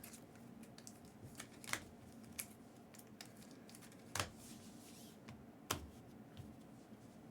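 Trading cards and their packaging being handled: scattered short clicks and rustles, a handful over several seconds.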